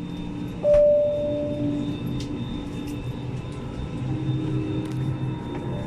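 Airliner cabin ambience during boarding: a steady background hum with scattered small clicks, and a single clear chime about a second in that rings and fades.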